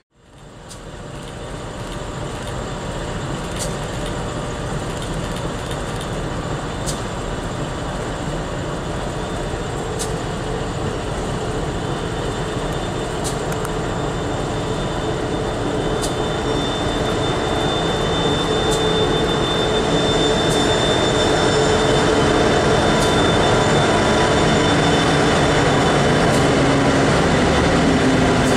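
Loaded coal train hauled by several diesel locomotives approaching and growing steadily louder. The engines run with a steady drone, and a whine comes in about halfway. Faint sharp clicks sound every few seconds.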